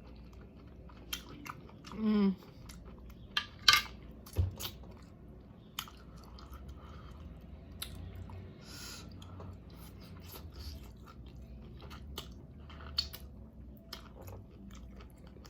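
Close-miked chewing and wet mouth sounds of a person eating shrimp and vegetables, with scattered sharp clicks of biting. There is a short hummed 'mm' about two seconds in.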